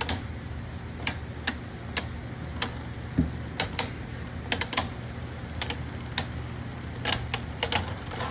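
Two Beyblade Burst tops, Twister Pandora and Lightning Pandora, spinning in a plastic stadium and clacking into each other and the stadium wall. The sharp clacks come in an irregular run, bunched more thickly in the second half.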